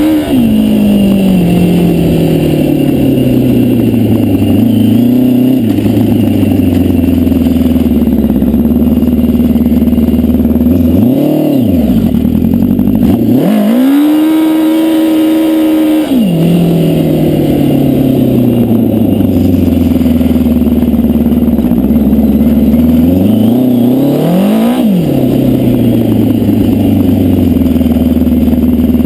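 Yamaha FJ1100 air-cooled inline-four motorcycle engine in a home-made dune buggy, revved up several times and sinking back toward a low, steady run. The longest rev is held high for a couple of seconds about halfway through.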